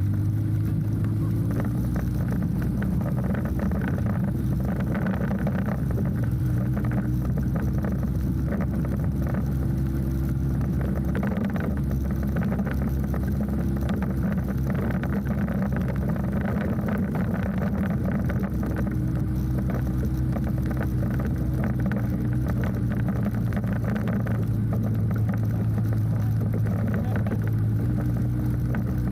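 An engine running steadily at an even speed, with no revving, over a low rumble.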